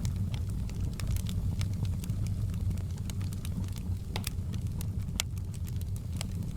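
Wood fire crackling in a fireplace: frequent sharp irregular pops and snaps over a steady low rumble of the burning fire.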